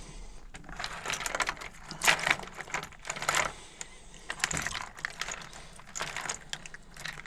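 Rummaging through a small box of electrical wires and connectors: irregular bursts of clicking and rattling, several in a row.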